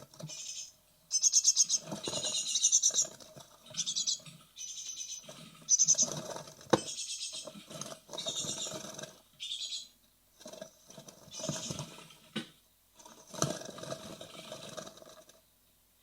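Fledging-age great tit nestlings in a nest box calling in repeated bursts of rapid, high-pitched buzzy notes, with scrabbling and scratching of feet inside the box.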